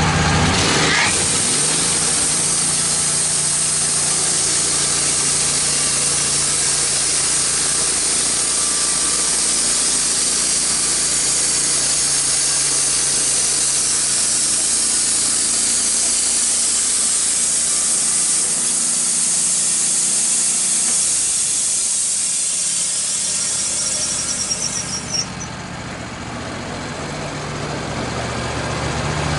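Wood-Mizer LT15 band sawmill cutting through a red oak log: a steady high hiss of the band blade in the wood over the running engine. About 25 seconds in the cut ends, the hiss stops, and the engine carries on idling.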